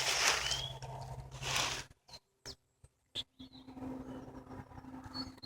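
Small birds chirping in short high notes over bursts of rustling in the first two seconds, then a steady low hum in the second half.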